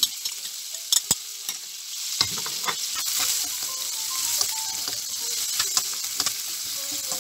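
Chopped onion and garlic sizzling in hot butter in a frying pan, stirred with a utensil that clicks and scrapes against the pan, the clicks coming thickest in the first few seconds.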